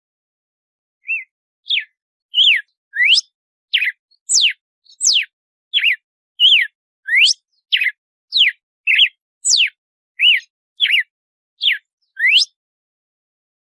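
Red-cowled cardinal (galo-de-campina) singing its 'açoite' song: a quick series of loud clear whistles, each note sweeping sharply down or up, starting about a second in.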